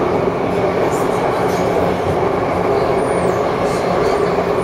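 Taipei Metro C301 train running at speed: a steady rumble of wheels on rail with a low motor hum, and a faint short high squeal about three seconds in.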